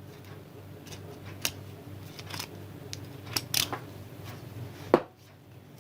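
Scattered small clicks and ticks of bonsai wire and tools being handled while branches are wired, about five sharp ones, the last and loudest near the end, over a faint steady hum.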